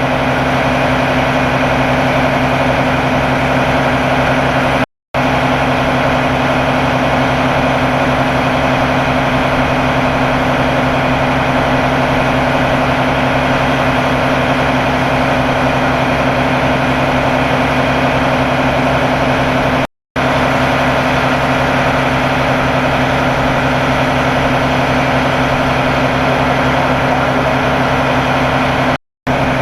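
Diesel engine of a fire department ladder truck running steadily at idle, a constant low hum, broken by three brief silences.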